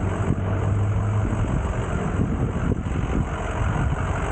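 Motorcycle engine running loud and steady, with a deep low hum strongest in the first second or so.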